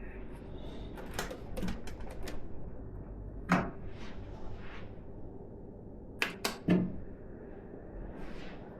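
Handling sounds from a PC build: a quick run of light clicks, then a single louder knock, then three knocks close together near the end, as computer case parts and components are fitted and handled.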